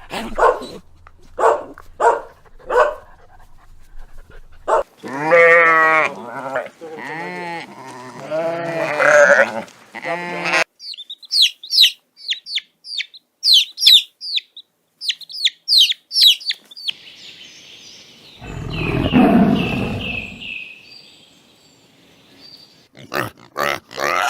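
A string of different animal calls one after another: short repeated calls, then a few seconds of pitched, wavering calls, then a fast run of high chirps, then one low rough call, and short calls again near the end.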